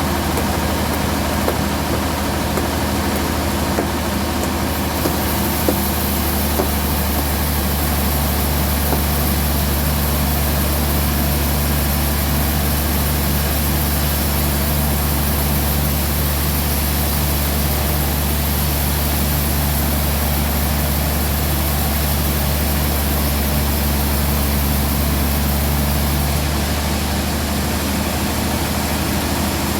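Band sawmill running steadily, with a low hum throughout. From about five seconds in until near the end it grows stronger and hissier, then settles back.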